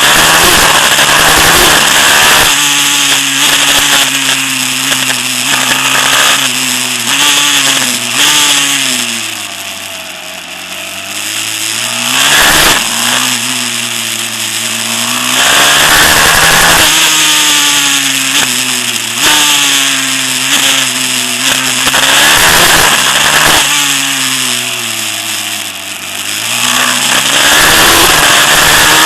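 Small four-stroke dirt bike engine, a 190cc Daytona in a pit bike, revving hard as it rides. The pitch climbs through the gears and drops off on the throttle several times over, the sound coming and going with the bike's distance.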